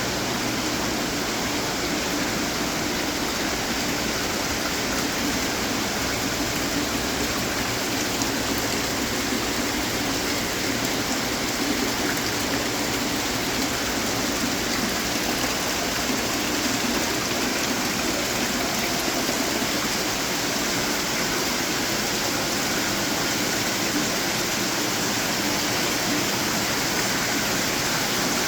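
Many decorative water fountains running together, with steady splashing and trickling water.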